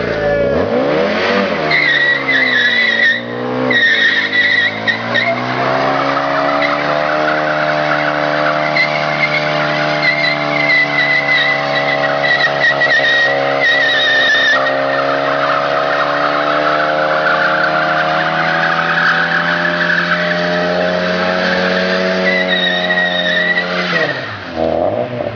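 Car engine revving up and held at steady high revs for a long stretch, with a high wavering squeal above it, then dropping back near the end.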